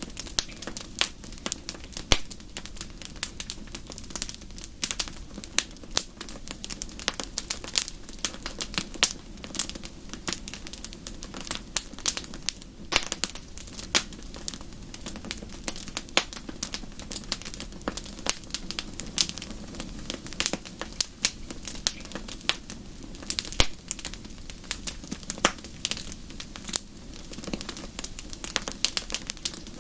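Wood fire crackling steadily in a fireplace: a constant low rumble of flames with frequent sharp, irregular pops and snaps.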